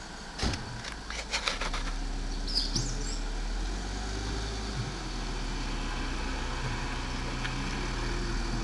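Car engine running steadily at low speed as it tows a touring caravan slowly along the lane, with a few sharp clicks in the first two seconds.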